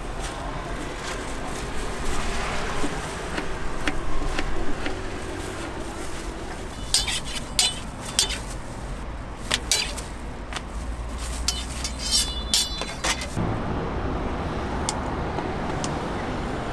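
Metal utensils clinking sharply several times while crepes are being made, over a steady hum of street traffic.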